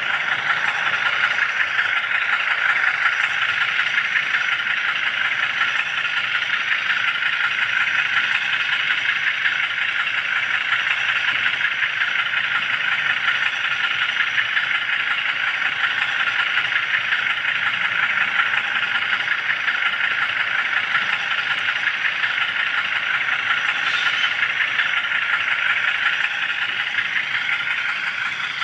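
Small HO-scale camera car rolling along model railroad track, with a steady high rattle of its wheels on the rails picked up by the iPod riding on it.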